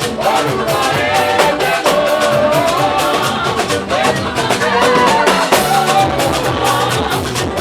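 Live praise band playing an upbeat song: a steady, busy drum-kit beat with a melody line carried over it.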